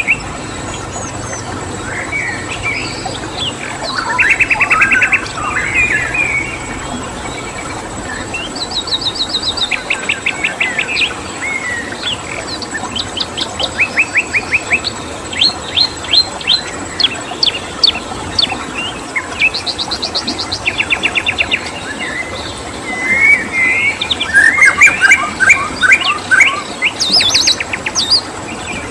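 Songbirds singing: several rapid trills of quickly repeated notes and scattered chirps, coming in bursts and loudest toward the end, over a steady rush of running water.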